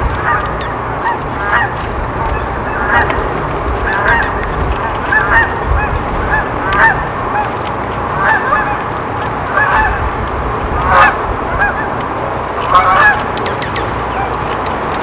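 A flock of geese honking, many short calls repeating and overlapping, over a steady background hiss.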